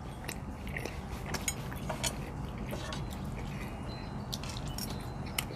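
Chewing and soft mouth sounds of people eating, with scattered small clicks and ticks, over a faint steady low hum.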